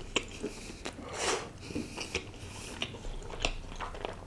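Close-miked chewing of a mouthful of naan with rice and mutton: scattered wet mouth smacks and clicks, with a longer rustling sound about a second in.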